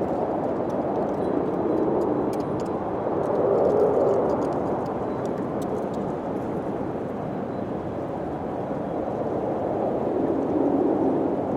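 Wind blowing steadily, swelling into gusts about four seconds in and again near the end, with a few faint light ticks in the first half.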